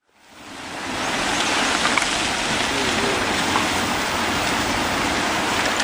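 Heavy rain falling in a steady rushing hiss that fades in over the first second, with a few faint ticks.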